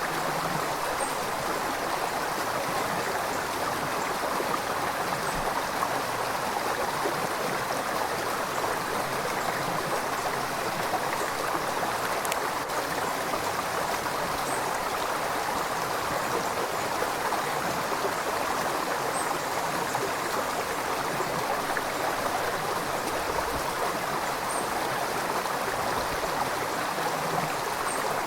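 A river running over rocks: a steady rushing and gurgling of flowing water.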